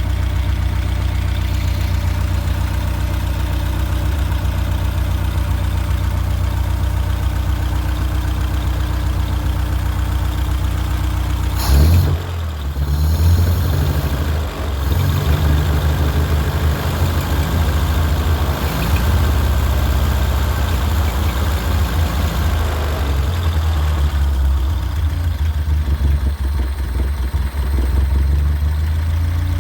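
1929 Riley 9's four-cylinder engine running at a steady idle on its first run after a full rebuild. About twelve seconds in there is a sudden loud burst, and after it the engine speed wavers up and down unevenly.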